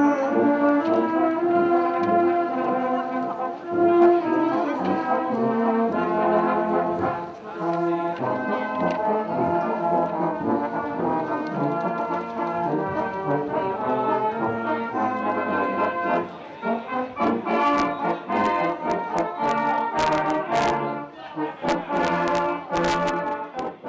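A brass band playing a slow tune of held chords, with a few sharp strikes near the end.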